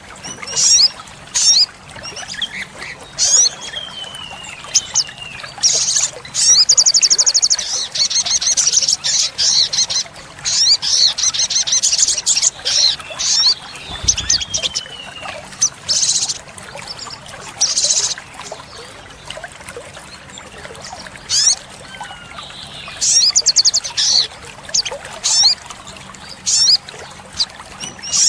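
Olive-backed sunbird singing: a string of sharp, high chirps broken by two fast rapid-fire trills, one about a quarter of the way in and one near the end, with a few short falling whistles.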